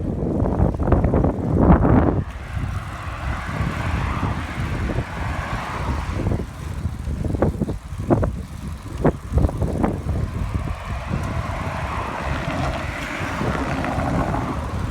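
Wind buffeting the microphone over tyre and road noise as a Brompton folding bike is ridden, with a few sharp clicks or rattles about halfway through.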